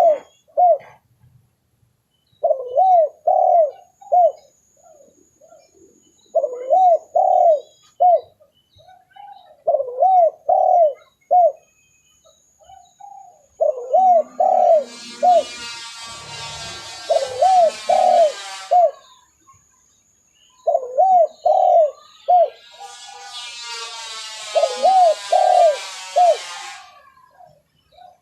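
Spotted dove (tekukur) cooing in repeated short phrases of three or four swooping notes with brief pauses: a recorded lure call for attracting doves. Twice, for about four seconds each, a louder harsh, raspy call sounds over the cooing.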